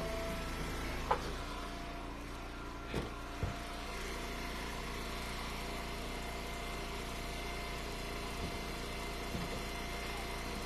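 Gas-engine wood splitter running steadily at idle, with a few sharp knocks about a second in and twice around three seconds in.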